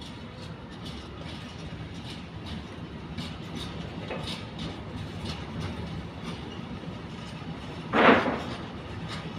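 Train running through the station, a steady rumble with wheels clicking over rail joints about twice a second. A short, loud blast of noise about eight seconds in.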